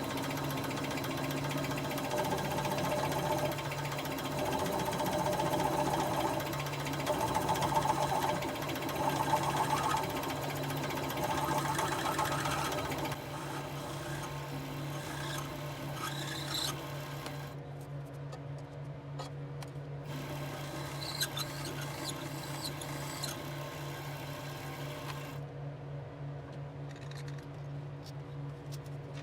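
Drill press running steadily while a countersink bit cuts the mounting holes in a metal bracket, with uneven cutting chatter over the motor's hum; about halfway through the cutting stops and only the steady hum of the spindle is left.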